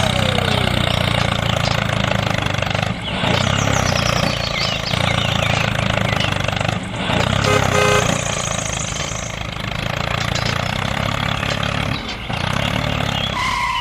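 Tractor engine running steadily with a low, even pulse, broken by short dips about three, seven and twelve seconds in.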